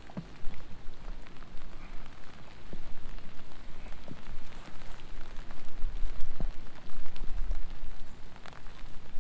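Steady rain falling on the river surface, an even hiss with scattered sharp drop ticks, over a low rumble that comes and goes.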